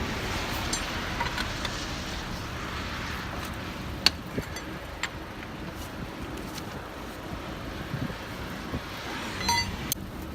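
Steady rush of wind and roadway traffic noise, with a few sharp metallic clicks from a lug wrench on the wheel's lug nuts; the loudest click comes about four seconds in.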